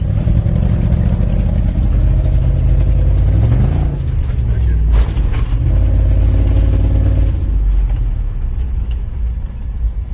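Toyota Sequoia's 5.7-litre V8 exhaust, one muffler removed, running loud under load off-road. The revs rise and fall back about three and a half seconds in, and a single knock comes about five seconds in.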